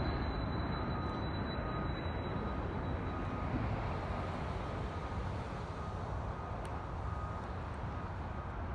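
Arriving jet airliner's engine noise fading away after it passes, with a high turbine whine dying out about three seconds in, leaving a low steady rumble.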